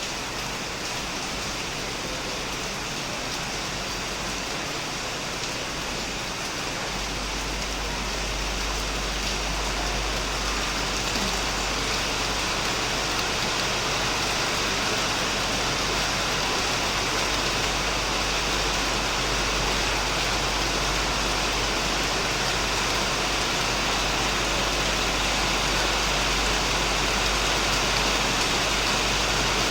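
Heavy rain falling on a shed roof and plants, a steady hiss, growing a little louder over the first ten seconds or so. A steady low hum comes in suddenly about seven seconds in.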